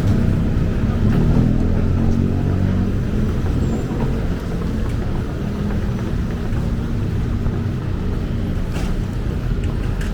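Steady low vehicle rumble with a drifting hum, running without letup.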